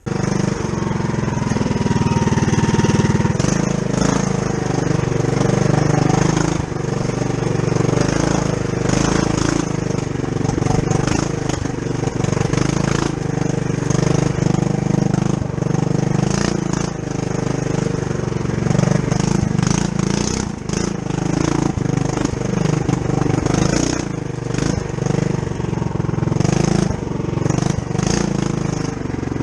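Mini bike's governor-removed Tillotson 212cc single-cylinder four-stroke engine running at a fairly steady pitch while riding a trail, with frequent short knocks and rattles over it.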